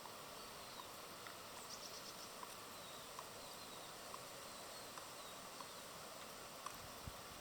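Small birds chirping faintly and intermittently, short high calls scattered through, with a few light ticks and a steady outdoor background hiss.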